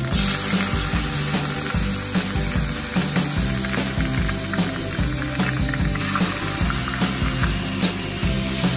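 Raw chicken pieces sizzling in hot oil in a wok, the hiss swelling as the chicken goes in, while a spatula stirs them around the pan.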